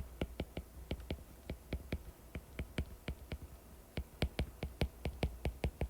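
Light, sharp key clicks in quick irregular runs, keys being pressed to enter a calculation, growing denser near the end.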